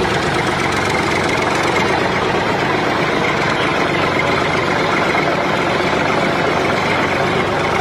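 A small motor running steadily with a dense, fast buzzing rattle, cut in and out abruptly.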